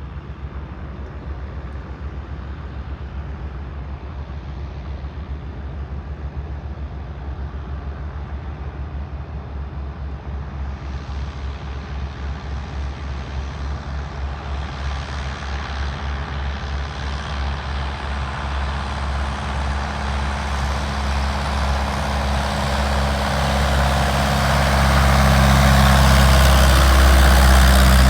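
Piston engine and propeller of a floatplane running, with a fast low beat, growing steadily louder as it comes closer and loudest near the end.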